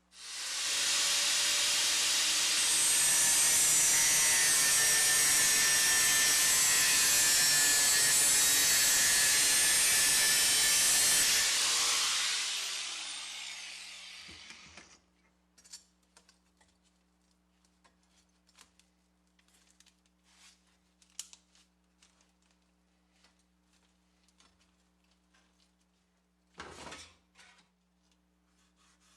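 A handheld electric power tool starts up and runs steadily for about eleven seconds with a loud hissing grind, then is switched off and winds down over a few seconds. Light handling clicks follow, and a short burst of noise comes near the end.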